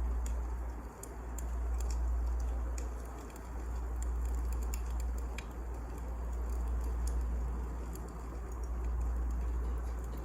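Wood fire burning in a fireplace: a low rumbling of the flames that swells and fades every couple of seconds, with scattered sharp crackles and pops of the burning logs.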